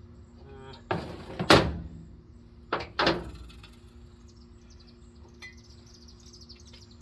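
A few sharp knocks and clanks: one about a second in, the loudest about a second and a half in, and two more close together about three seconds in, each dying away briefly. A steady low hum runs underneath.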